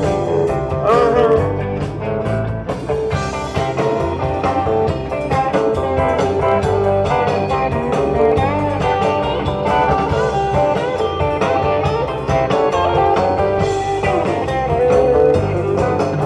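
Live rock and roll band playing an instrumental break: a guitar lead with bending notes over bass and drums.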